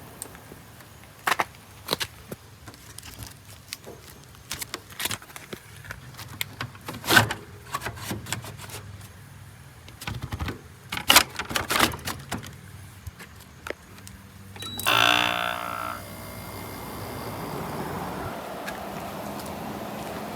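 Scattered clicks and knocks of the room air conditioner being handled, then about fifteen seconds in a short pitched hum as it starts, followed by a steady even rush with a low hum as it runs.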